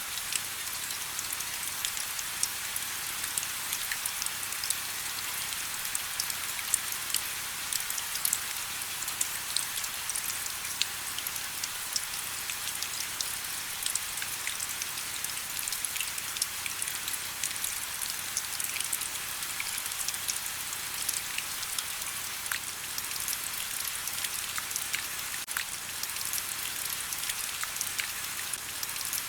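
Steady rain with many distinct drops pattering on a surface, a constant hiss with close individual drop ticks scattered throughout.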